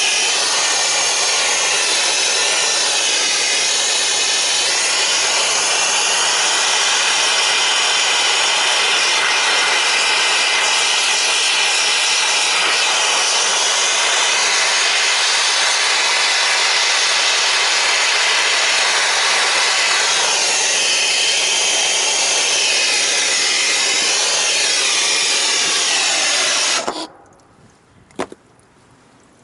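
Handheld gas torch burning with a loud, steady hiss while melting ice off a refrigeration compressor; it stops suddenly near the end.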